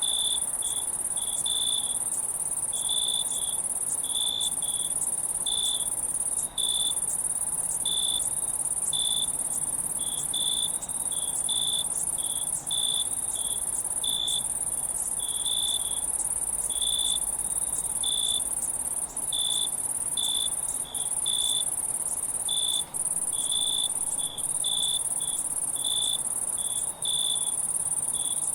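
Insect chorus: a steady, high shrill drone with crickets chirping in short pulses about twice a second over it.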